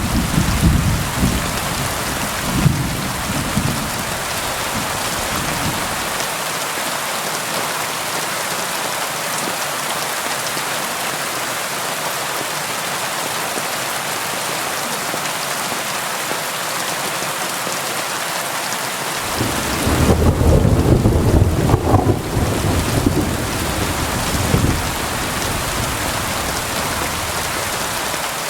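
Steady heavy rainfall with rolling thunder. A low rumble dies away over the first few seconds, and a second roll of thunder builds about 20 seconds in and lasts about five seconds.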